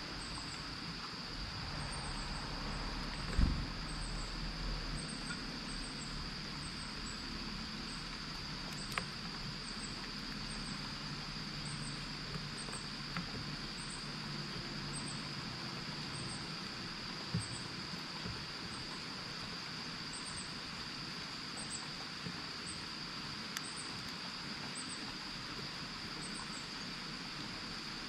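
Steady hiss of light rain with insects chirping in a high, even drone. A few sharp taps or knocks stand out, the loudest about three and a half seconds in.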